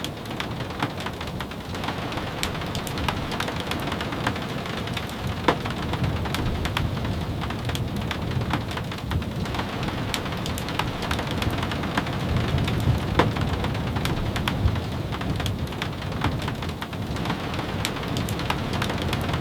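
Steady rain, with scattered sharp ticks of drops and a low rumble underneath that swells a little past the middle.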